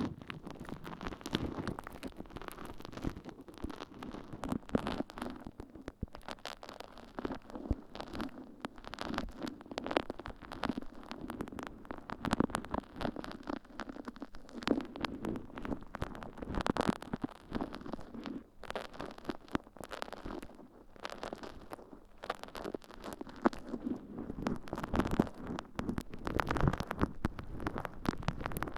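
Water-soaked sponge squishing and crackling in an ear-cleaning ASMR recording, a dense, irregular run of wet crackles.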